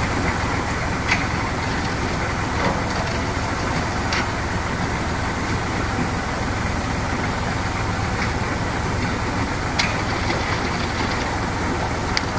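Tractor engine running steadily at a constant speed, with a few sharp clicks now and then.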